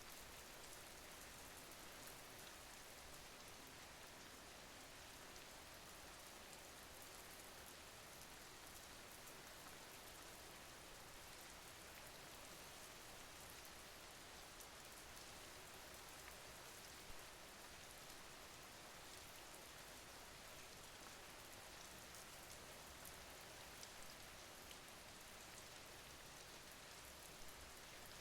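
Faint, steady rain: an even hiss with a few brief, sharper drop ticks.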